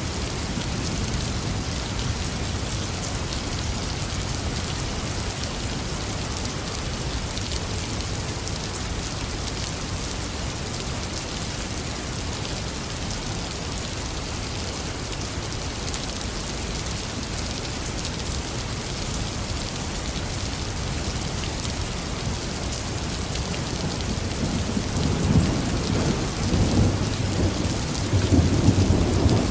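Heavy rain falling steadily, a constant hiss. About 25 seconds in, a low rumble of thunder builds and grows louder toward the end.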